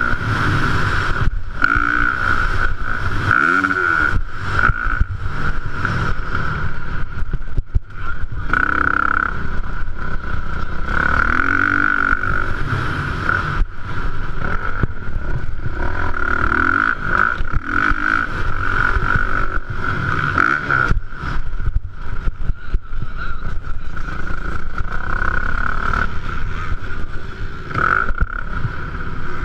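450-class motocross bike engine revving hard and dropping off over and over as the rider works the throttle around the track, with a steady high-pitched whine running alongside.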